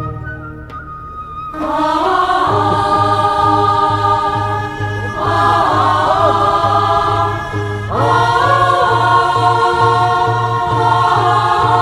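Voices singing a Korean funeral bier song (sangyeo sori) together in long held, sliding notes, starting about one and a half seconds in, over a steady low beat about twice a second.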